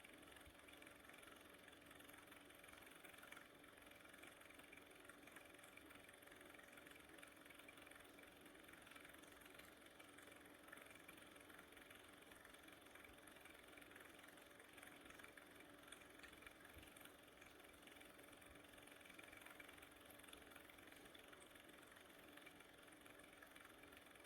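Near silence: a faint, steady hiss with a low, even hum.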